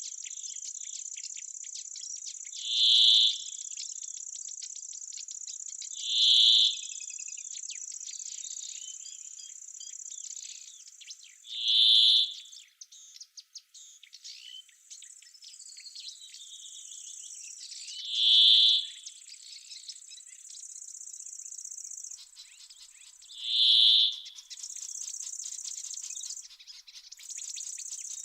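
Summer oak-wood ambience: a steady high-pitched trill of insects runs throughout. Over it, a louder call about a second long repeats five times, every three to six seconds, with a few faint bird chirps in between.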